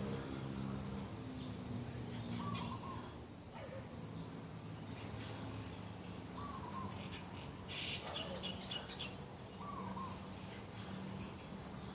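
Morning birdsong: a short call repeating about every four seconds, with high chirps from small birds and a quick flurry of chirping about eight seconds in.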